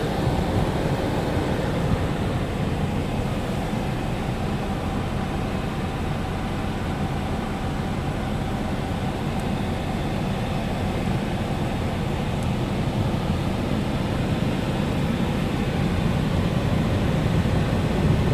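Scania G440 tractor unit's 13-litre six-cylinder diesel engine running steadily, getting slightly louder near the end.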